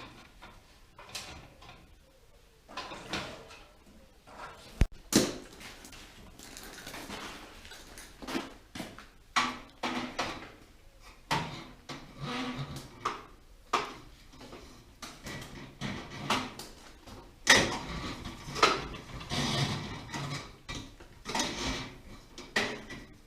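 A string of irregular scrapes and knocks, as of materials and tools being handled. The sharpest knocks come about five seconds in, and there is a longer scraping stretch near seventeen to eighteen seconds.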